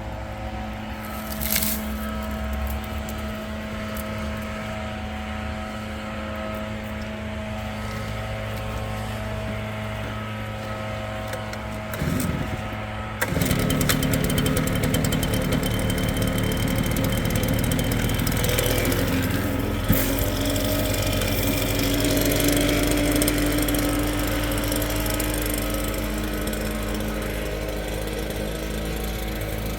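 Leaf blower's small engine running steadily at low speed, then opened up about thirteen seconds in to a louder, rushing blast of air as it blows leaves out of the river rock.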